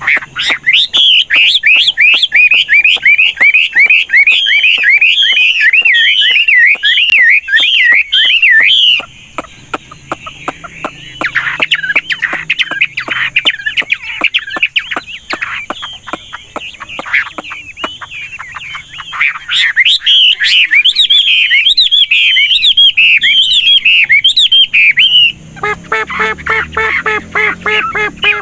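Chinese hwamei singing loudly: fast, continuous warbling phrases that keep switching pitch and pattern. About a third of the way in the song gives way to quieter chatter with many sharp clicks, then resumes. Near the end there is a harsher, buzzy nasal call.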